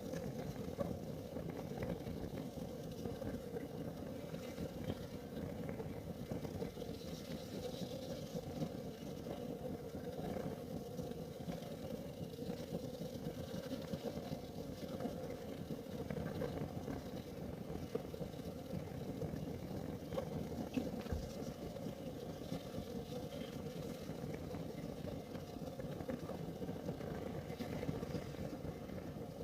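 Kerosene heater burning with a steady low rumble and a faint constant hum, with light ticks scattered through.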